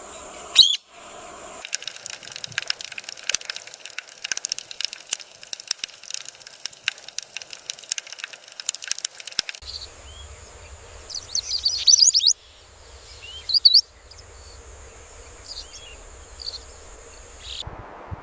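Wild birds chirping in short high bursts, after a stretch of rapid irregular clicking, with abrupt changes between the segments.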